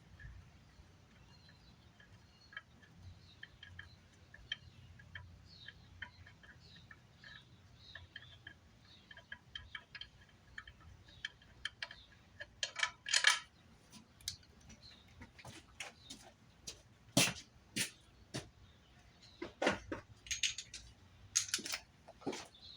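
Hand tools clinking and knocking on metal at irregular intervals, sparse at first and louder and more frequent in the second half, over faint high chirps repeating about twice a second.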